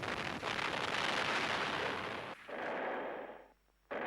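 Battle sound of gunfire and artillery fire, a dense continuous din of shots and blasts. It fades and cuts out briefly near the end, then starts again.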